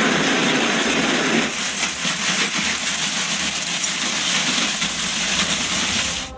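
Heavy hail falling: a loud, dense, steady clatter of hailstones. The sound changes character about a second and a half in and cuts off suddenly near the end.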